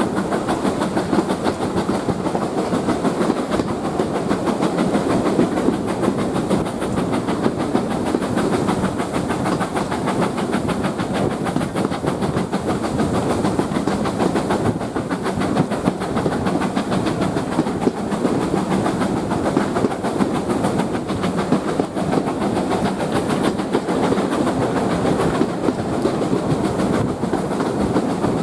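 Heritage railway train running steadily along the line: a continuous, even rumble of wheels on the track.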